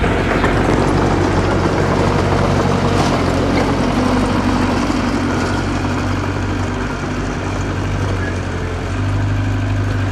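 Diesel engine of a small bulldozer or dump truck running steadily under work, a low droning hum with mechanical clatter over it. The engine note shifts slightly about nine seconds in.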